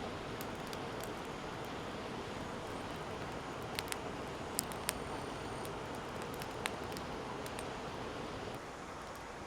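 Wood fire burning in a fire pit: a handful of sharp crackling pops over a steady rushing hiss, which drops a little near the end.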